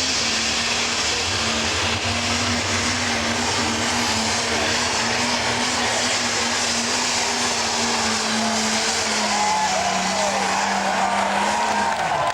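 Pro Stock pulling tractor's turbocharged diesel engine running hard at full throttle under load. Its pitch holds steady, falls about nine seconds in, and drops away near the end as the run ends.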